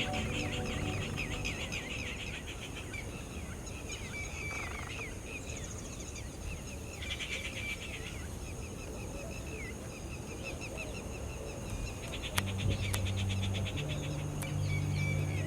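Wild birds calling in bursts of rapid, chattering trills over a steady outdoor background, busiest near the start, about halfway through and again near the end. Faint steady background music fades out in the first second and comes back about three-quarters of the way in.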